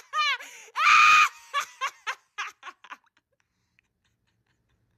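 Laughter just after a joke's punchline: a quick run of 'ha-ha' notes, a loud high squeal about a second in, then short chuckles that die away by about three seconds in.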